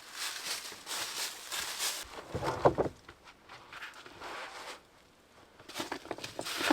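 Hand work on a stone and mortar wall: a series of gritty scraping and rustling strokes, with one sharper knock about two and a half seconds in, then a short pause and more scraping near the end.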